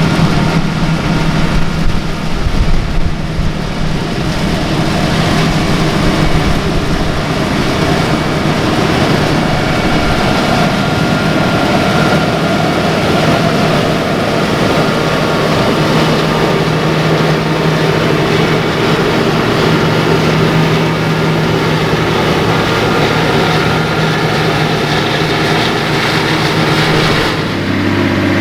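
Large diesel farm machinery running steadily in a soybean field: a loud engine under load with dense mechanical noise. Near the end the sound switches abruptly to a different machine's steadier engine hum.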